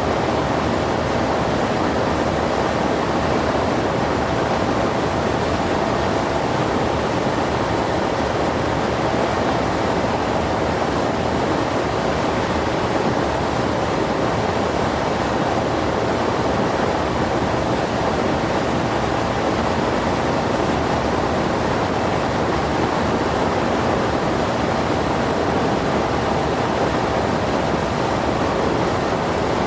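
Steady drone of a Zenith CH 750 Super Duty's Lycoming IO-375 engine and propeller, heard inside the cabin mixed with a loud rush of airflow, running at an even power setting.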